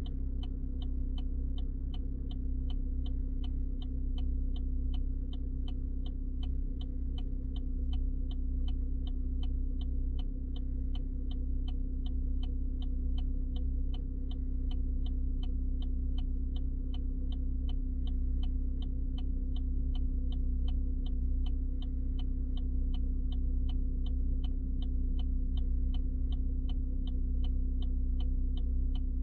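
Car cabin while driving: a steady low engine hum, with an even ticking about two and a half times a second.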